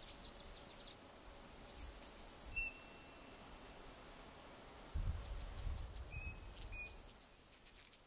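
Faint high-pitched bird chirps and short whistled notes, with a denser run of high twittering and a low rumble from about five seconds in.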